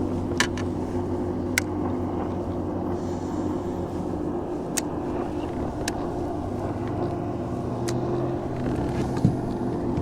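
A boat motor hums steadily, with a few short, sharp clicks and knocks scattered through.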